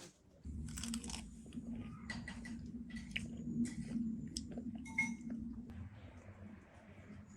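Someone eating crunchy food: repeated crunching bites and chewing, over a steady low hum that starts about half a second in, with a few brief high-pitched blips.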